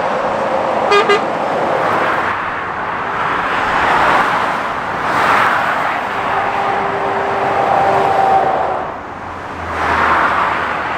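Lorries and cars passing one after another on a busy main road, each a rising and falling rush of tyre and engine noise. About a second in come two short, high-pitched toots, and a steady whine runs under one passing vehicle for a couple of seconds in the middle.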